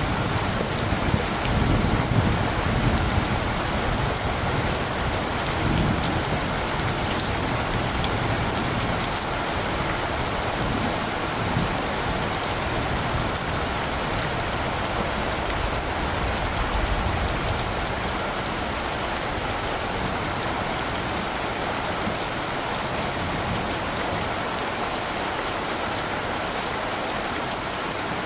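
Steady rain falling, an even dense hiss, with a low rumble of distant thunder through roughly the first half that dies away.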